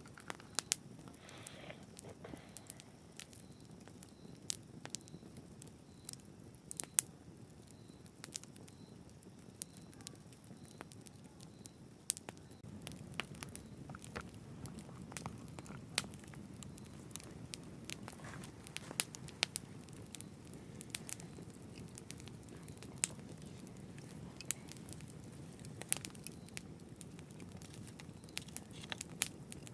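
Campfire burning, with irregular sharp crackles and pops over a low steady rush of flames.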